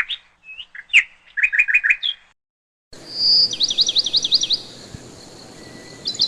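Small songbirds chirping: a few short high chirps and a quick run of four notes, a brief cut to silence, then a different recording with a faint hiss where a bird sings a fast trill of repeated down-slurred notes, starting again near the end.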